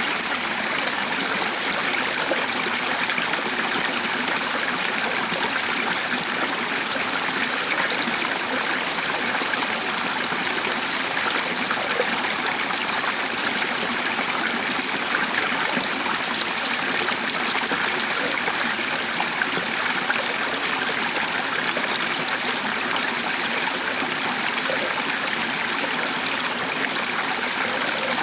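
A stream of running water, a steady even rush that does not change.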